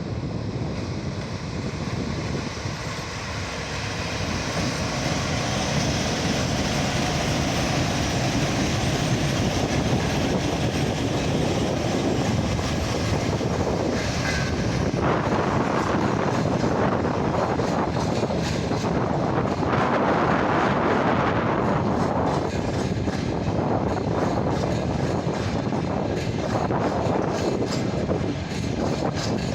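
Freight train hauled by a VL10 electric locomotive rolling past, a steady loud rumble of wheels on rail. Toward the end there are rapid repeated clicks of wheels over the rail joints, and a brief high squeal about halfway through.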